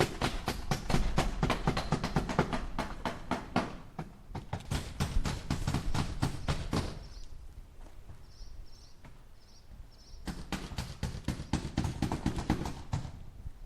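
Hammer driving nails into wood in quick runs of rapid blows, several a second. The blows stop for about three seconds partway through, then another run follows.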